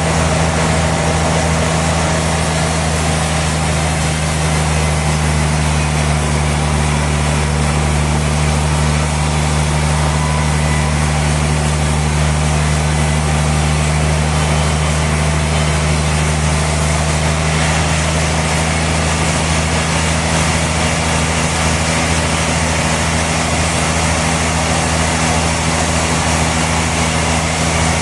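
Sawmill machinery running steadily: a constant low motor hum under an even hiss, with no breaks or distinct knocks.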